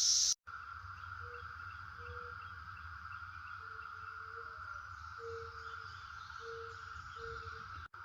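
Faint outdoor nature ambience: a steady insect-like chorus with a series of short, low call notes repeating irregularly, about one a second.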